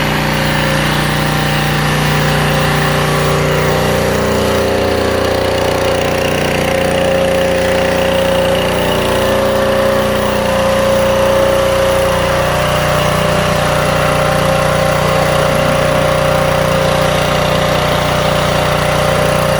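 Pressure washer running steadily, a constant mechanical drone with a hiss above it.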